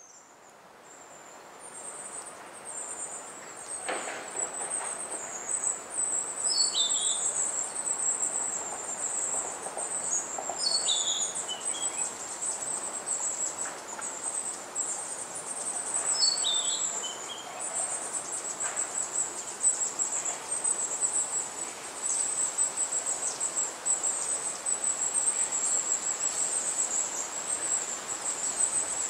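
Small birds giving a constant high, thin twittering, with a few short descending calls, over gusting wind.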